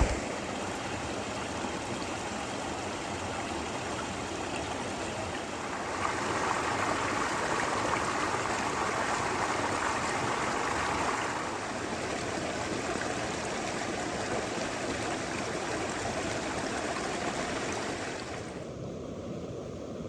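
Creek water rushing steadily over rocks. Its loudness and tone shift abruptly a few times, softer and duller near the end.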